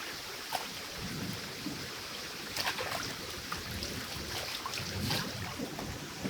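Steady rain falling, with scattered louder drops striking nearby and low rumbles of thunder swelling about a second in and again around five seconds in.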